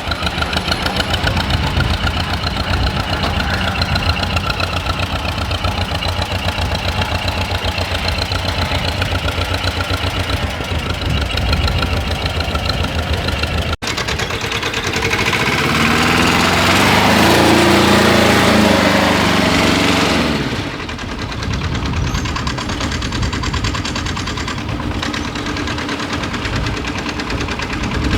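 John Deere M tractor's two-cylinder engine running with a steady, rapid beat. About halfway through, a louder engine note rises and falls in pitch over several seconds, then steady running resumes.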